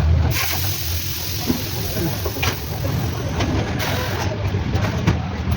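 A steady hiss that starts just after the beginning and stops about four seconds in, over a low steady rumble.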